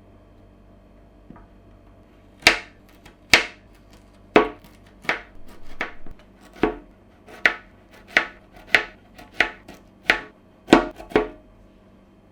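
Kitchen knife chopping food on a cutting board: about a dozen single, sharp strokes at an uneven pace a little under one a second, starting about two seconds in and stopping shortly before the end.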